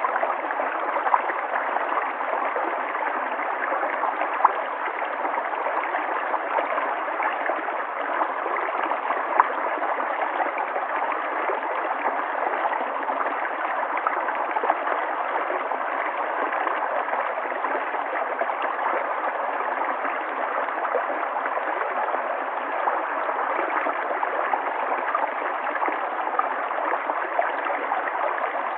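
River water flowing steadily, a constant rush with small splashes and gurgles throughout.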